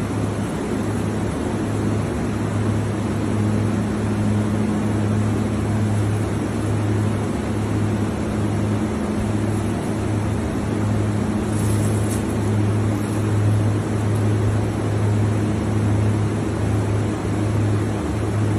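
A steady low hum and rumble under an even wash of noise, like a running vehicle engine.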